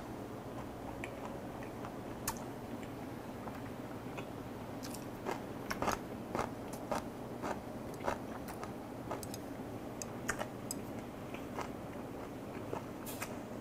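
A person chewing food close to a clip-on microphone, with short wet mouth clicks and smacks, a few at first and more often from about five seconds in, over a steady low room hum.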